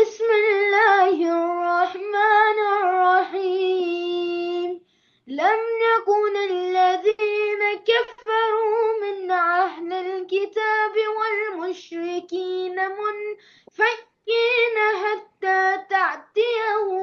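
Quran recitation in Arabic, chanted by a high, young voice in long held and ornamented notes. The phrases break off briefly about five seconds in and again near the end.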